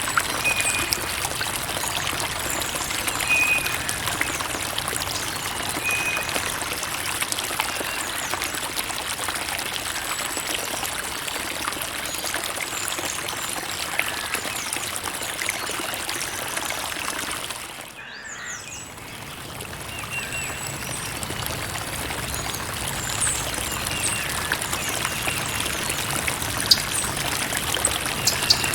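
Creek water running and trickling steadily, with short high chirps here and there. The flow briefly dips in level about two-thirds of the way through, then comes back.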